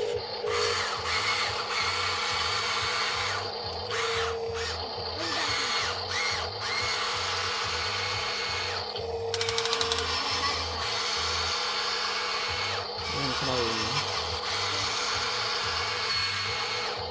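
Small electric motors and plastic gearboxes of a radio-controlled Huina 1594 excavator whirring as its arm and tracks work, with a steady high whine and short rises and falls as the motors start and stop. There is a brief burst of rapid clicking about halfway through.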